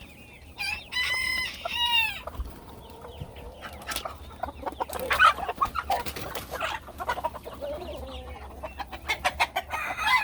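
Chickens clucking, with a rooster crowing once from about a second in, then scattered short clucks and calls.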